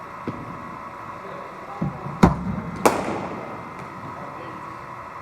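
One delivery from a cricket bowling machine being batted: three sharp knocks within about a second, as the ball is fired, pitches and meets the bat. The middle knock is the loudest and the last rings on briefly, over a steady hum.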